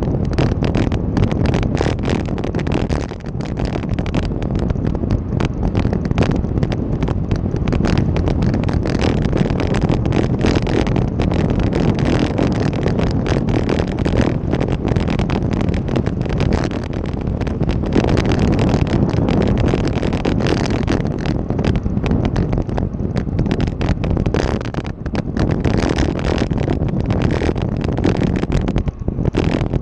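Wind buffeting the microphone of a camera riding along on a bike, a loud, rough rumble with constant irregular gusty thumps.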